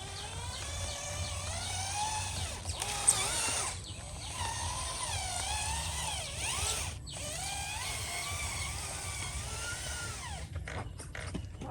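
Small electric motor of a radio-controlled model whining, its pitch rising and falling as the throttle changes. The whine stops about ten seconds in, followed by a few sharp clicks.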